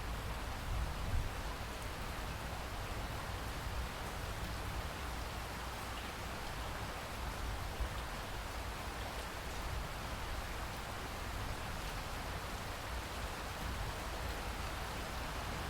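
Steady rainfall pattering on surfaces, an even hiss with a low rumble underneath.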